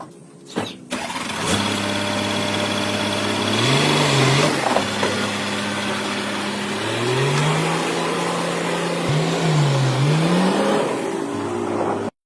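Car engine starting about a second in after a few clicks, then running and being revved up and down several times. The sound stops abruptly near the end.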